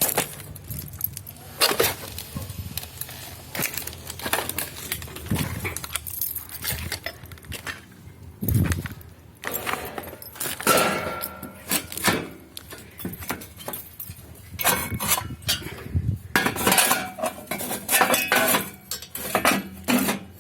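Pieces of metal clanking and clinking against each other in an irregular series of knocks, some ringing briefly.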